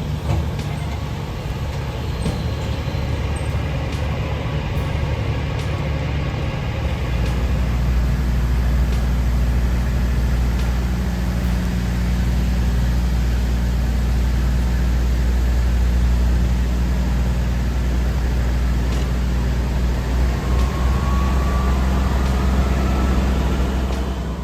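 Heavy truck engine running steadily under load, its low drone growing louder about seven seconds in.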